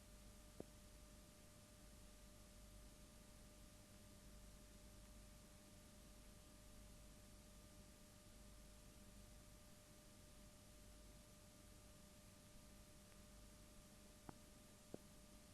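Near silence: a faint hiss with a thin, steady electrical tone, and a few faint ticks near the start and end.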